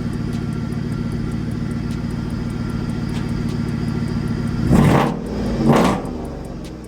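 Just-overhauled car engine idling steadily through its exhaust, then revved twice in quick succession near the end before dropping back to a quieter idle.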